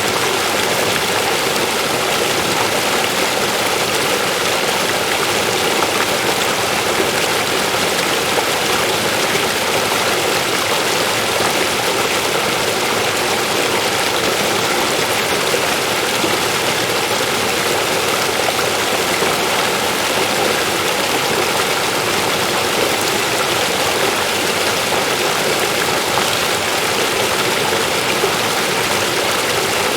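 River water rushing over rocks: a steady, even rush of flowing water with no breaks.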